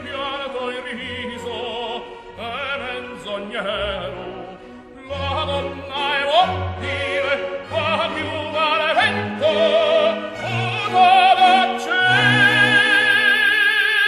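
Operatic singing with orchestral accompaniment: a voice with wide vibrato over sustained low notes. Near the end the voice rises to a long high note held with vibrato.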